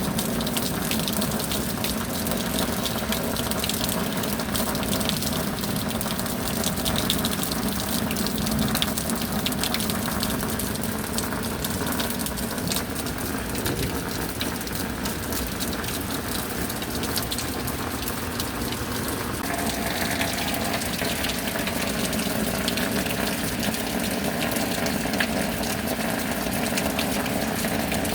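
Steady rain falling, an even rush with scattered sharp drop ticks; its tone shifts slightly about twenty seconds in.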